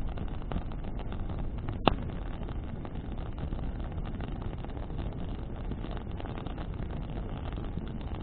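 Bonfire burning in the wind: a steady low rumble of flames and wind with scattered crackles of burning wood, and one sharp loud pop about two seconds in.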